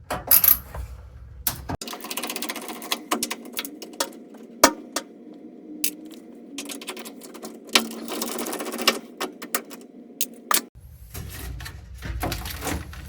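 Rapid plastic clicks and rattling as a washer's control board is worked loose from the plastic bracket it is clipped into, with one sharp knock about four and a half seconds in.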